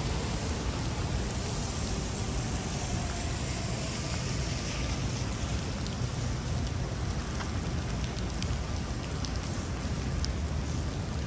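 Steady rain falling, with scattered faint drop ticks and a low rumble underneath.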